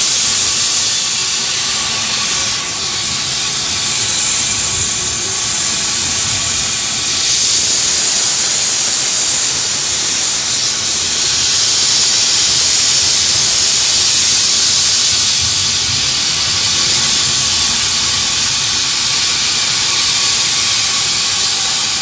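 Loud steady hiss with a weaker low rumble beneath it: the running noise of a train on the move.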